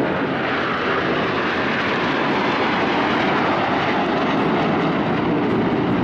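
Jet engines of Aermacchi MB-339 aerobatic jets flying past, a steady loud rush of noise.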